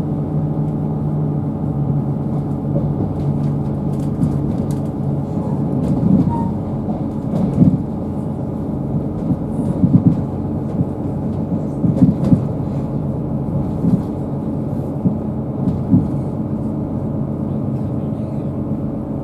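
Inside a moving diesel multiple unit, heard from the passenger cabin: a steady engine and running hum, with a handful of short, louder knocks and rattles from the running gear between about six and sixteen seconds in.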